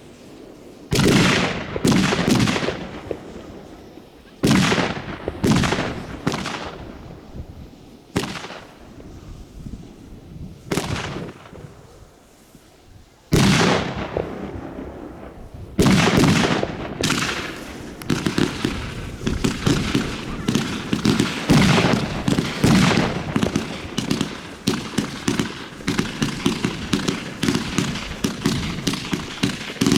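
Consumer fireworks going off: a string of loud single bangs, each trailing into crackling, one to two and a half seconds apart. From about eighteen seconds in they give way to a dense, continuous run of rapid pops and crackles.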